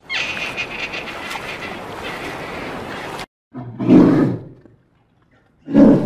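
Brown bear growling twice, two deep calls of about a second each, roughly two seconds apart. Before them, about three seconds of steady hiss that cuts off suddenly.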